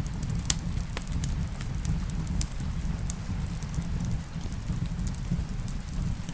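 Wood fire crackling in a fireplace, irregular sharp pops with the loudest about half a second in, over a steady low rumble, mixed with steady rain.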